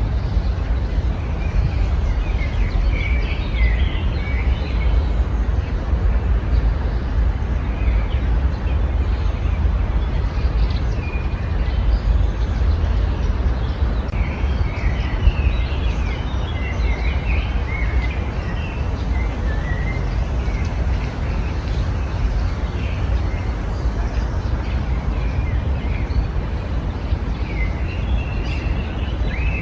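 Several small songbirds chirping and twittering in short, scattered phrases over a steady low rumble.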